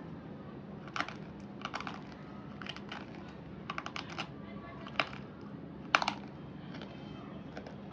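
Slate pencils being crunched: short clusters of sharp, crackly snaps about once a second, over a faint steady low hum.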